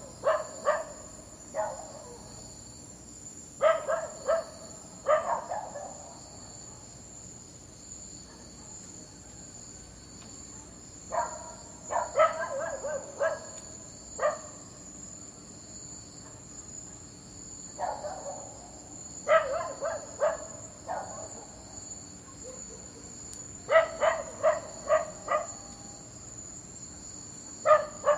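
A dog barking in short volleys of two to six quick barks, a new volley every few seconds, over a steady high-pitched insect-like drone.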